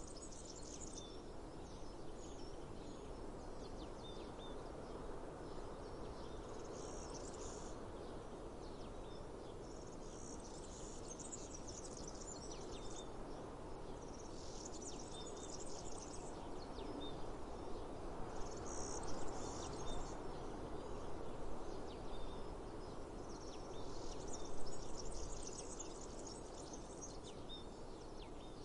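Cicadas buzzing in rasping bursts of one to three seconds, recurring every few seconds, over a steady low outdoor hiss. Faint short chirps repeat beneath them.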